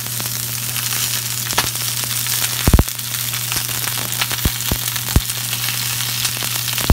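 Broccoli florets sizzling in a hot nonstick frying pan: a steady hiss broken by sharp pops, the loudest a small cluster about two and a half seconds in, over a steady low hum.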